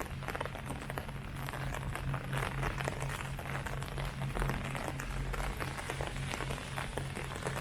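Rain falling on leaves: a dense, steady patter of many small drops, with a steady low hum underneath.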